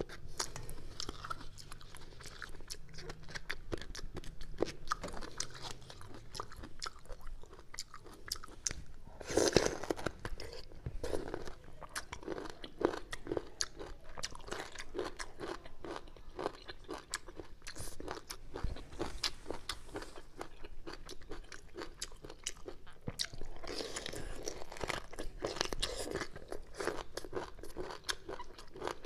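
Close-up crunchy chewing and biting of crisp bamboo shoots, with many small irregular crackles and a few heavier bursts of crunching.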